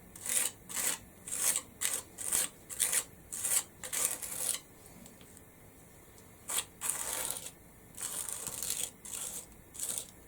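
Black structure paste being spread across a stencil in short scraping strokes, about two a second, then a pause and a few longer, slower scrapes.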